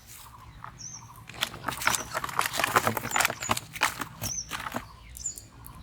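A small bird repeating a short high chirp about once a second, over a few seconds of rapid clicks and rustles that are loudest in the middle.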